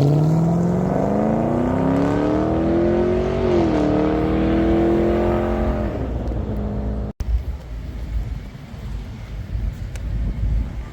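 A car accelerating away, its engine revving steadily higher, with a brief dip in pitch about three and a half seconds in, then holding and fading. After an abrupt cut about seven seconds in, only a low rumbling noise remains.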